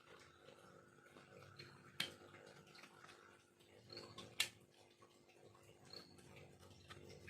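Hand carving tool working bamboo: faint scraping and light picking, with a few sharp clicks, the two loudest about two seconds in and about four and a half seconds in.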